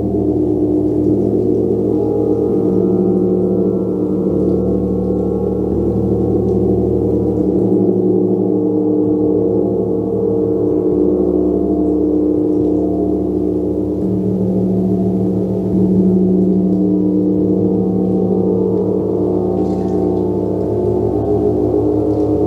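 Gong played continuously in a sustained wash of many overlapping ringing tones, with a fast throbbing beat in the low notes.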